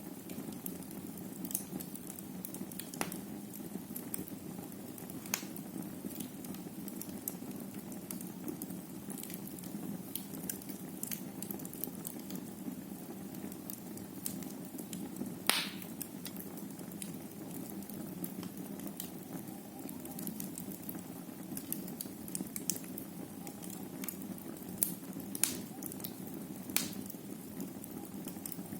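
Wood fire burning in a fireplace: a steady low rushing of the flames with scattered crackles and pops, one louder pop about halfway through.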